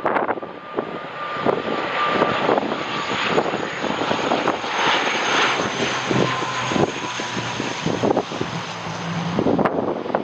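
Airliner engines running as a plane passes on landing, a steady rush with a thin whine that slowly drops in pitch. Gusty wind buffets the microphone, crackling throughout.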